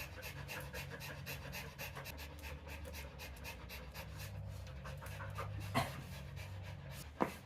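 A dog panting fast and steadily, about five breaths a second. A sharp knock comes near the end.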